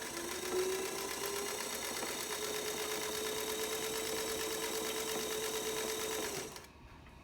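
A 1947 Singer 221 Featherweight sewing machine stitching through two layers of denim. Its motor whine rises in pitch over the first couple of seconds, then holds steady under an even stitching clatter, and stops abruptly about six and a half seconds in. This is a freshly overhauled machine with new motor brushes, running smoothly.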